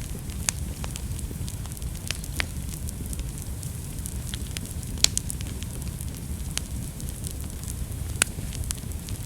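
Wood fire burning in a fireplace: a steady low rumble of flames with scattered sharp crackles and pops, the loudest pops a little after five seconds and at about eight seconds.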